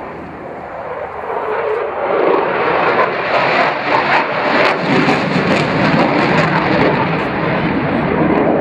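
Eurofighter Typhoon's twin jet engines running loud in a display pass. The noise grows over the first two seconds or so, then stays loud with some crackle.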